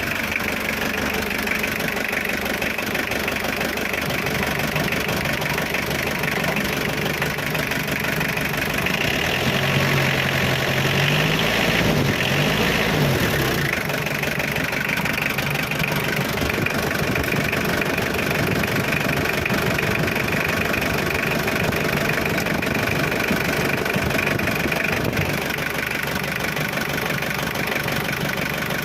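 1999 Mitsubishi L300's diesel engine idling steadily, revved briefly about a third of the way in, then dropping back to idle.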